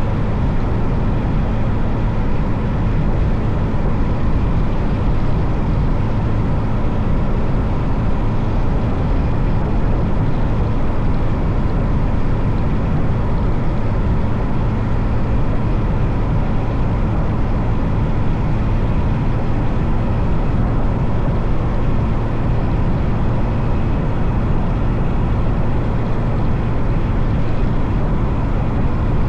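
Motorcycle running at a steady cruise, its engine drone mixed with wind and road noise on the rider's microphone, without revving or gear changes.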